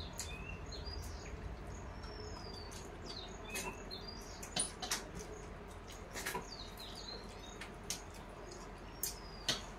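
Small birds chirping in short high calls, some sliding down in pitch, against scattered sharp clicks and smacks from people eating by hand off steel plates.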